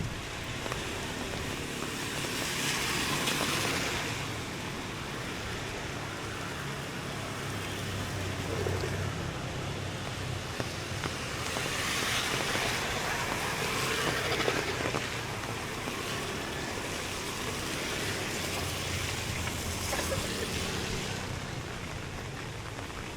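Street traffic on a wet road: a steady low hum of engines, with the hiss of tyres swelling and fading as vehicles pass, twice most clearly.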